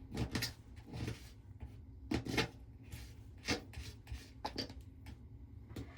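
Short, irregular scrapes of a scraping tool working old caulk off the edge of a bathtub, stroke by stroke.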